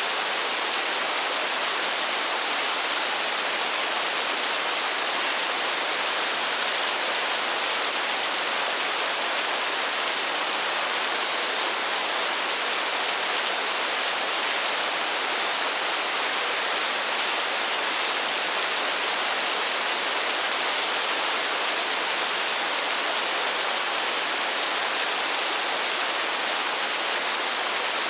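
Steady rainfall, an even hiss with no single drops standing out and no change in strength.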